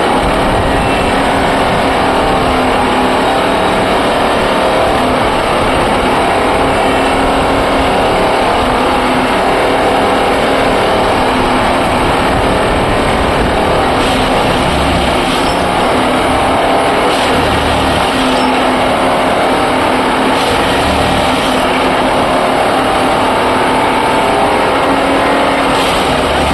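Train in motion: a loud, steady rumble with a few low thuds.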